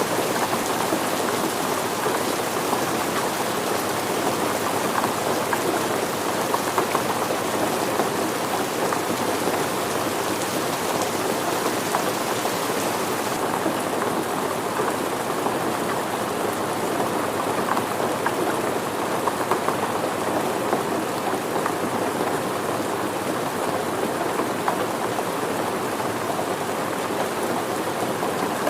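Steady rain falling and pattering on surfaces, an even continuous hiss with fine drop sounds. The high part of the hiss softens a little about halfway through.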